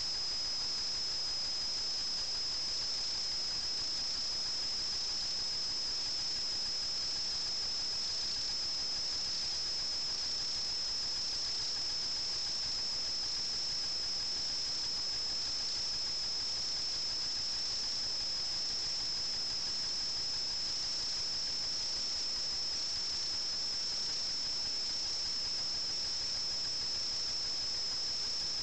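Steady hiss with a constant high-pitched whine, unchanging throughout, like electronic noise on a recording's audio channel.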